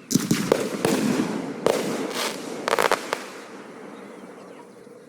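Aerial fireworks exploding: a string of booms and bangs over the first three seconds, with a quick rattle of crackling reports near the three-second mark. After that the sound dies away in a fading rumble.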